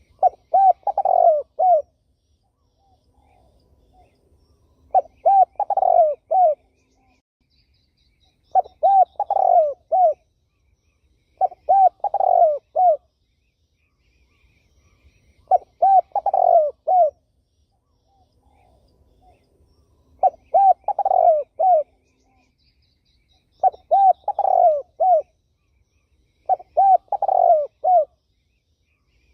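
Spotted dove (terkukur) cooing: a phrase of several low coos repeated eight times, about every three to four seconds. Faint high chirps of another small bird are heard now and then.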